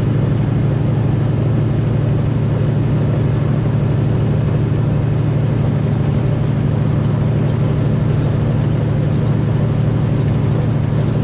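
Semi truck's diesel engine and drivetrain droning steadily at highway cruise, with an even wash of road noise.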